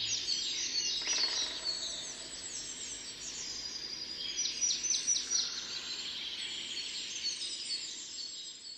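Several birds singing and calling at once, a dense chorus of high chirps and whistles, with a rapid trill about a second in and a burst of sharp notes around the middle.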